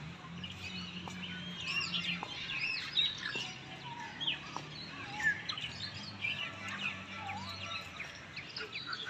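Many small birds chirping and twittering, with quick overlapping calls throughout. A faint low hum sits underneath at times.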